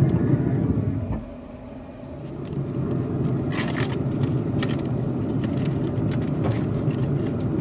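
Aluminium foil packet being opened, with short crinkling and scraping strokes about four seconds in and again later, over a steady low rumble.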